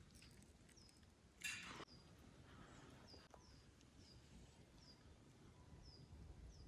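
Faint, repeated short high chirps falling in pitch, a small bird calling over and over. A brief rustle about a second and a half in.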